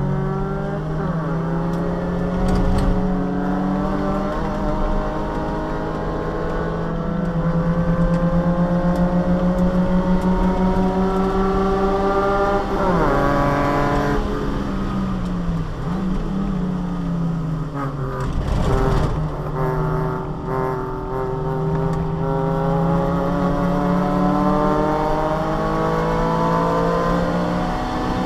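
Subaru Vivio's small four-cylinder engine, heard from inside the cabin, running hard on track with its pitch climbing steadily, dropping sharply about halfway through and climbing again. A short rush of noise comes about two-thirds of the way through.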